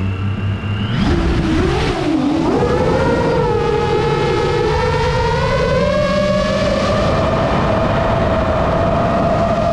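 Model airplane's motor and propeller running hard: a high steady whine that rises and wavers in pitch for the first two seconds or so as the throttle comes up, then holds and creeps slowly higher.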